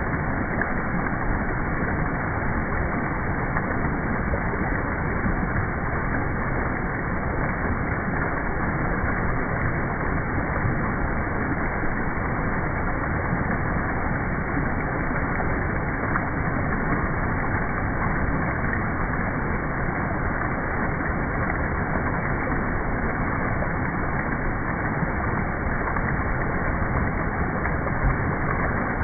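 Waterfall and stream water rushing in a steady, unbroken roar.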